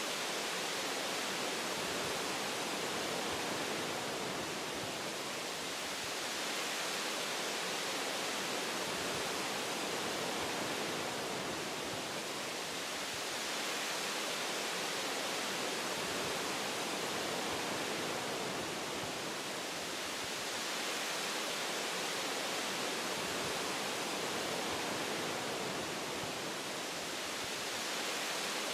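Wind blowing through forest tree branches, a steady rushing hiss that swells and eases gently every several seconds.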